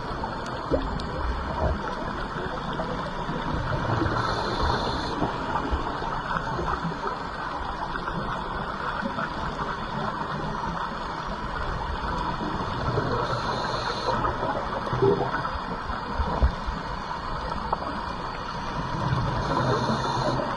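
Underwater sound of scuba diving: a steady gurgle of exhaled bubbles, with three short hisses of a diver's regulator as air is drawn in.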